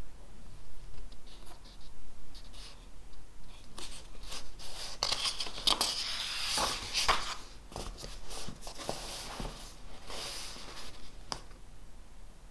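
Paper and pen sounds at a desk: scattered light scratches and taps, with a longer stretch of paper rustling and scraping in the middle and another brief one near the end.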